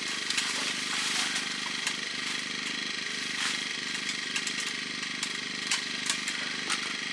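An engine running steadily at idle, with scattered light clicks and knocks over it.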